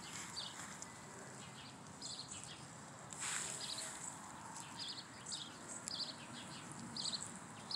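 Small birds chirping: short, high chirps repeated in clusters throughout, with a brief hiss about three seconds in.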